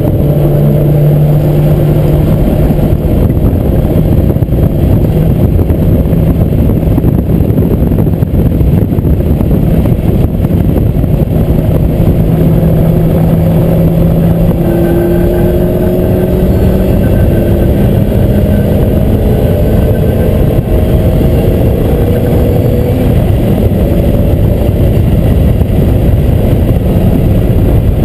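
Lotus Exige engine heard from inside the cabin, pulling at steady high revs under load, slowly climbing in pitch as the car gains speed. Heavy road and wind noise runs under it.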